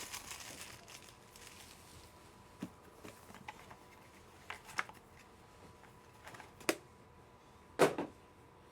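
Trading cards and their plastic holders being handled: a few scattered light clicks and taps, the loudest two sharp clicks coming near the end.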